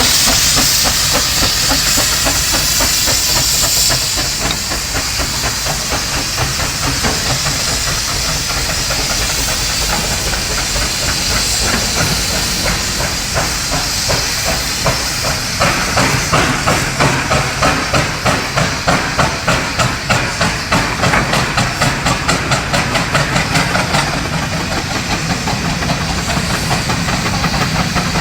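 McLaren heavy-haulage steam traction engine hissing loudly as steam escapes. About halfway through its exhaust starts beating in a steady rhythm, roughly two to three beats a second, as the engine works.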